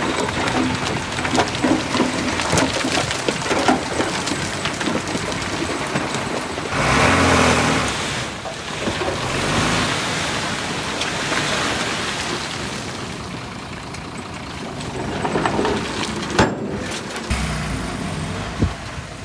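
Heavy diesel earthmoving machinery at work, engines running under load with scattered knocks and scraping from soil and stone. It swells louder about seven seconds in, and the sound changes abruptly near the end.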